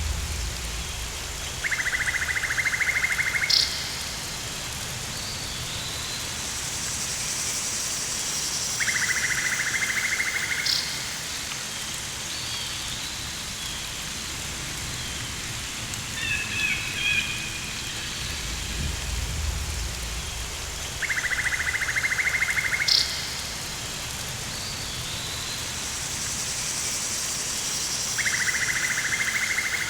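Rainforest ambience: a steady hiss of rain, with a pulsing buzzy trill that comes four times for about two seconds each, a higher shrill chorus twice, a few short chirps midway and a low rumble about two-thirds through.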